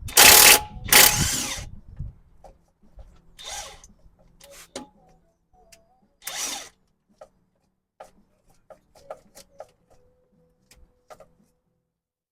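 Cordless power tool run in short bursts to undo engine bolts: two longer bursts near the start and two shorter ones later, with light metal clicks and clinks of tools and bolts in between.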